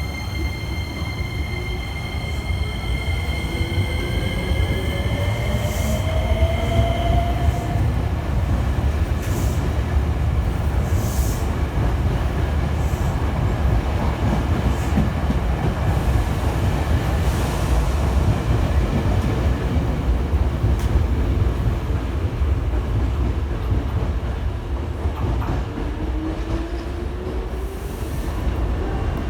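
Hankyu electric train pulling out of the station: the traction motors give a whine that rises in pitch over the first several seconds as it accelerates, then the rumble of the cars' wheels on the rails, with a few brief high wheel squeals. Near the end another rising motor whine starts.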